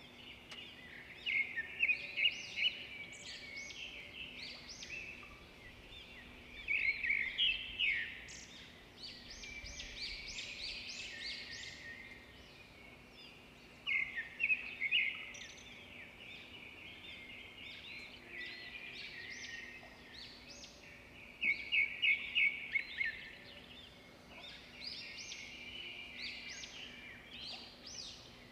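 Birds chirping, with bursts of quick trills every few seconds over a faint steady hum.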